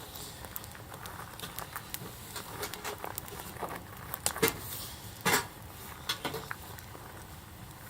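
Wood campfire crackling with irregular small snaps and a few louder pops in the middle.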